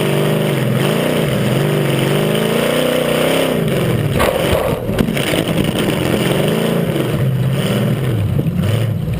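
Tough-truck racing engine revving up and down several times while it runs hard around a dirt track. A few sharp knocks come around four to five seconds in, as the revs drop.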